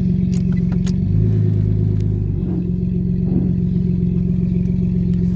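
Non-turbo Nissan RB20 inline-six engine running loud with no exhaust, open straight from the downpipe, its note shifting slightly about a second in and again around two and a half seconds.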